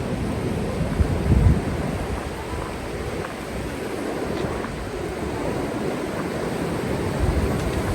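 Steady rush of whitewater, with wind buffeting the microphone in low gusts about a second in and again near the end.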